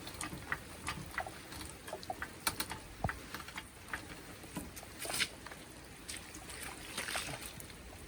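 Rain falling steadily, with irregular drips and taps landing close by, a few of them louder around five and seven seconds in.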